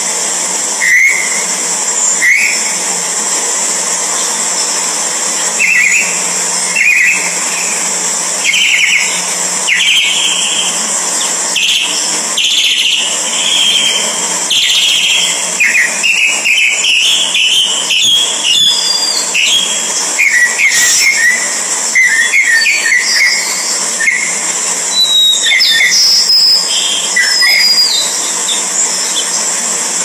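Birds calling: short chirps at first, then a quick run of rising high notes through the middle, over a steady high hiss.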